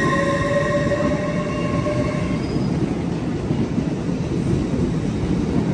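A train moving through the station with a steady low rumble. A high whine rises slightly in pitch and fades out about two seconds in.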